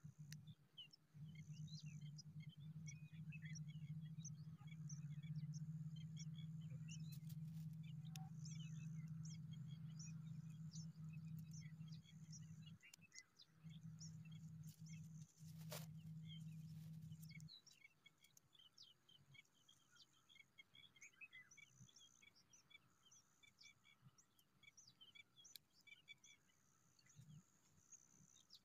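Faint scattered high chirps and tweets of small birds, with a faint high buzz that comes and goes. A steady low hum runs under them and stops about two-thirds of the way through.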